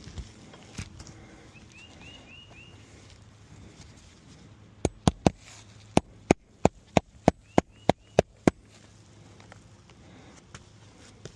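A quick run of about a dozen sharp snaps or taps, roughly three a second, from asphalt roof shingles being worked loose by hand; the tabs come off easily because the shingles are deteriorating and no longer sealed.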